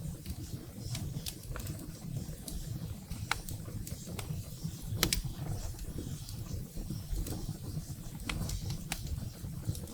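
Wood fire burning in a fireplace, crackling with irregular sharp pops over a steady low rumble of the flames, the loudest pop about five seconds in.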